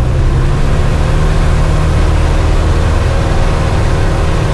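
Cessna 172's piston engine and propeller running steadily, a loud even drone with a strong low hum.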